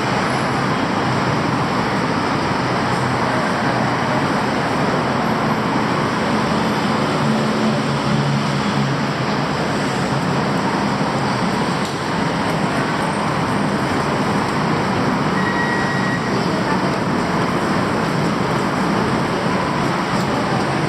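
Steady, loud city traffic noise: a dense, even wash of passing vehicles with no single event standing out.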